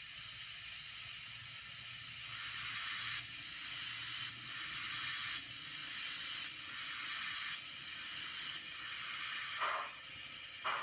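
Steam locomotive sound for an N scale model steam engine: slow hissing chuffs, about one a second. Two short, sharper sounds come near the end.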